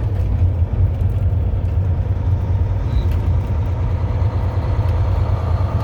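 Heavy-duty truck's diesel engine and road noise heard from inside the cab while driving: a steady, loud low rumble with a faint hum above it.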